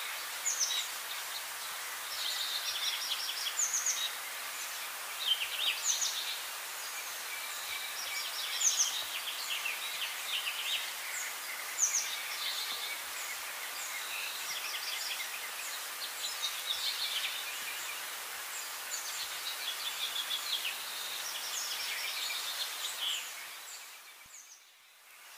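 Several birds chirping and singing in quick, overlapping phrases over a steady outdoor hiss, fading out briefly near the end.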